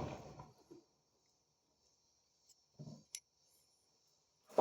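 Small metal gearbox parts (gears, springs, cups, shims) being handled and pressed together: a sharp clink at the start, a brief scrape and tick about three seconds in, and another knock near the end, with quiet between.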